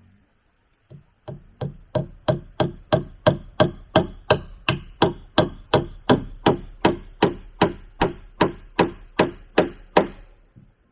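A tool striking wood over and over in a steady rhythm, about three blows a second. The blows start a little over a second in, grow louder over the first few, and stop shortly before the end.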